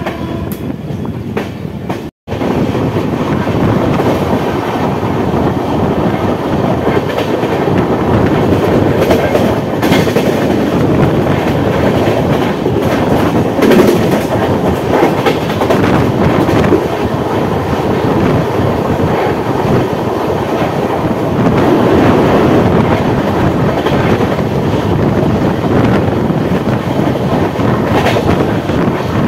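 A passenger train running at speed, heard from its open coach door: wheels rumbling and clacking steadily over rail joints and points. The sound cuts out for an instant about two seconds in.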